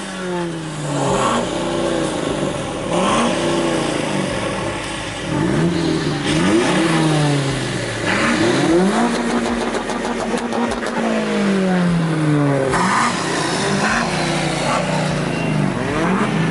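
Several car engines revving over and over, with overlapping rises and falls in pitch.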